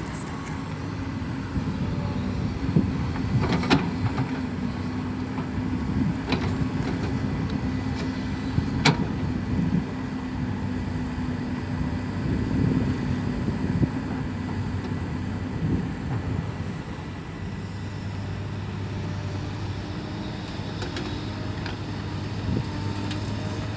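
Excavator's diesel engine running steadily, with a few sharp knocks. The engine note changes about two-thirds of the way through.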